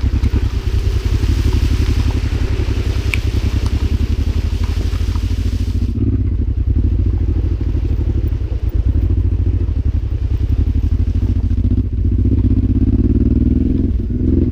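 Honda motorcycle engine running steadily under way, its firing pulses heard as a fast low throb. A high hiss lies over it and drops away about six seconds in.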